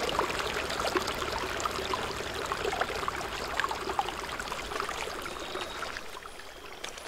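A rocky stream rushing and burbling over stones, a steady wash of water with many small splashes, easing off a little near the end.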